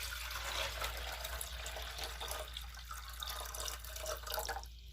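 Water being poured into the reservoir of a cat water fountain, a steady splashing fill that stops shortly before the end.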